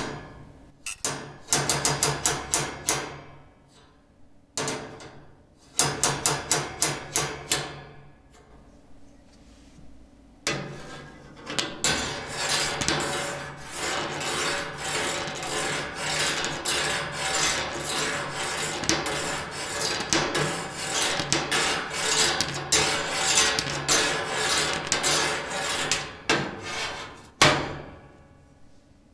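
Fast, repeated rasping strokes with a pitched ring. They come in three short runs, then one long unbroken run of about fifteen seconds that stops suddenly near the end.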